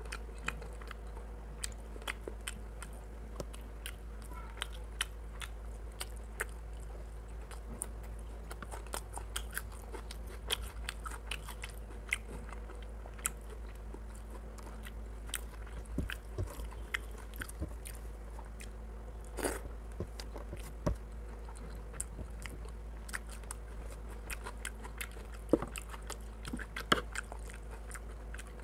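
Close-miked eating of rice and chicken curry by hand: wet chewing with irregular mouth clicks and smacks, a few louder ones near the end, over a steady low hum.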